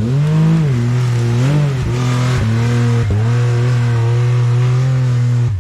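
Off-road side-by-side (UTV) engine held at high revs under heavy throttle while climbing, its pitch dipping briefly about a second and a half and three seconds in, then falling away right at the end.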